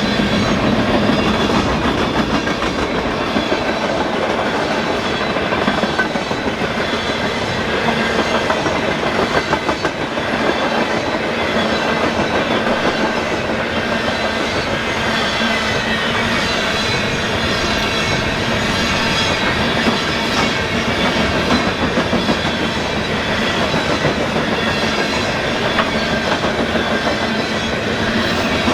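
Freight train's coal cars rolling past close by, a continuous steady rumble with wheels clicking over the rail joints.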